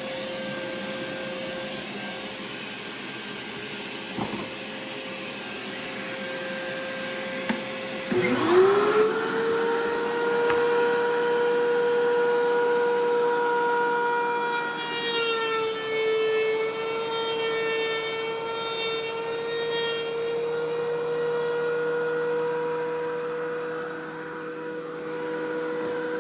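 Electric power planer running with a steady whine, which dips sharply in pitch about eight seconds in as the cutter bites into the ash slab, then recovers and carries on cutting, a little louder.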